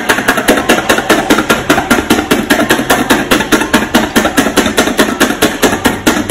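Rapid, evenly spaced knocking, about six strikes a second.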